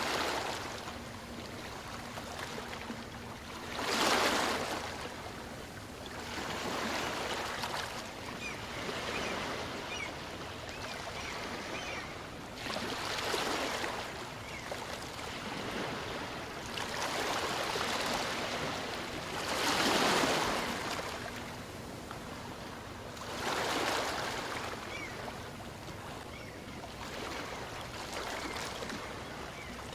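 Small waves on a calm sea breaking and washing up a beach, the surf swelling into a louder rush every few seconds between quieter washes.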